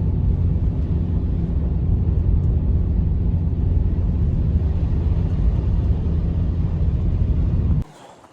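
A loud, steady low rumble with an even hum in it, which cuts off abruptly near the end.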